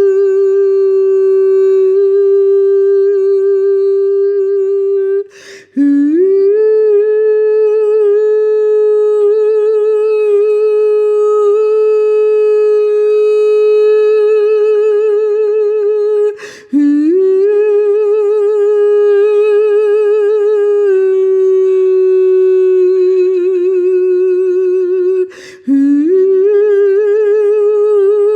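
A single voice humming one long, held note that wavers slightly in places. It breaks off briefly three times, about five, sixteen and twenty-five seconds in, and each new note slides up into the same pitch.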